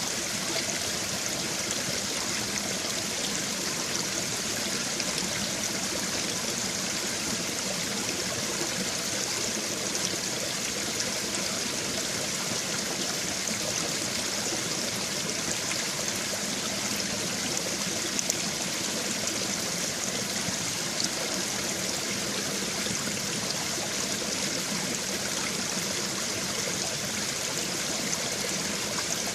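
Shallow brook babbling over stones: a steady rush of flowing water with splashes and trickles.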